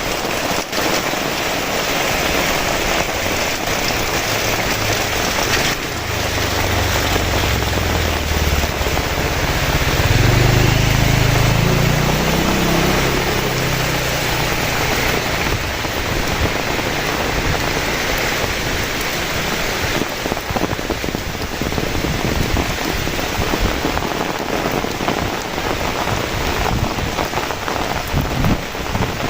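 Heavy rain falling steadily. A deep low rumble swells in the middle and fades out again.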